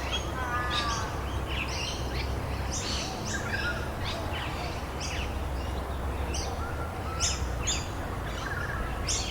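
Songbirds chirping in many short, quick repeated notes over a steady hiss of rain, with a low rumble underneath.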